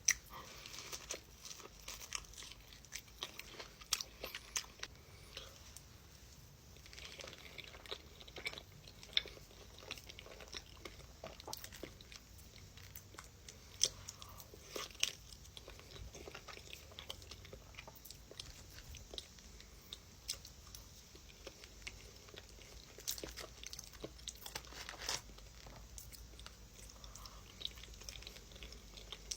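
A person biting and chewing crunchy food, with irregular crisp crunches, some louder than others, scattered throughout.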